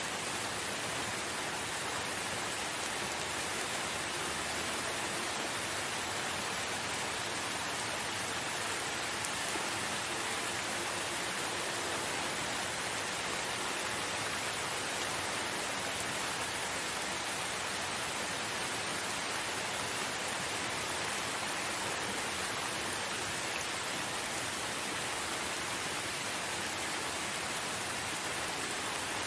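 Steady rain falling, an even unbroken hiss with no single louder drops or other events standing out.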